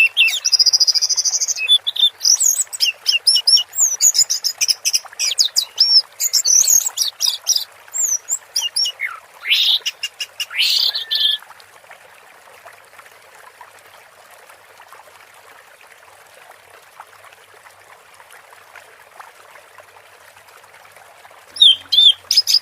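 Orange-headed thrush singing a fast, varied run of whistles and trills for about eleven seconds. It then falls silent over a faint steady hiss of running water, and starts singing again just before the end.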